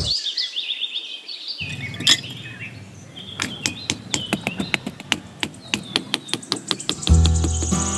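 Birds chirping with short, high twittering calls throughout, over a quick even run of light clicks, about four or five a second, through the middle. A music track with a deep bass beat comes in near the end.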